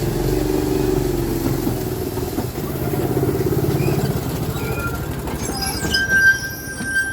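A small rail car running along its track with a steady, rhythmic rumble. From about six seconds in come a few sharp clicks and a brief thin squeal from the wheels.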